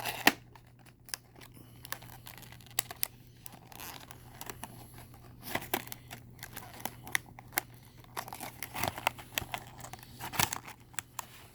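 Plastic and cardboard packaging of a diecast model car being handled and worked open, crinkling with scattered sharp clicks and snaps over a steady low hum.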